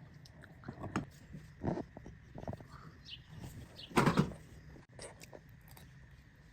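A few short knocks and clatters, the loudest about four seconds in.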